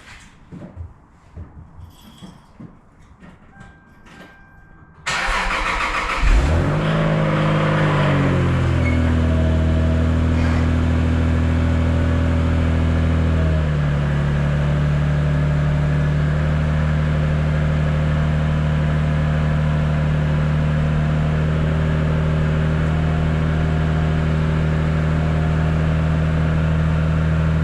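A few faint clicks, then a 1993 Lexus SC300's inline-six cranks for about a second and catches on a cold start after sitting about a month. It flares up and settles into a steady fast cold idle.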